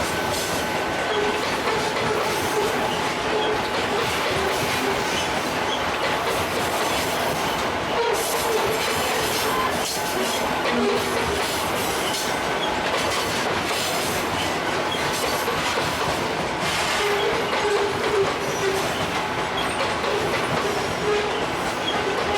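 Freight train wagons rolling past, their wheels clacking steadily over the rail joints, with a faint squeal from the wheels now and then.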